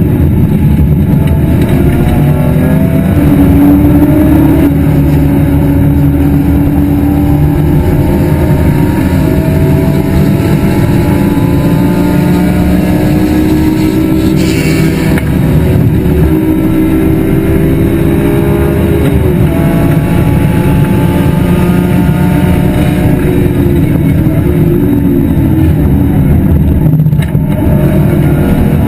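BMW E46 M3 race car's engine at racing speed, loud and continuous, its pitch climbing as it accelerates through the gears and dropping back with shifts and braking, over heavy road and wind noise.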